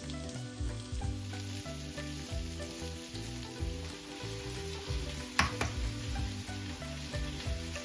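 Food sizzling as it fries in a pan, with a sharp click about five and a half seconds in, over soft background music.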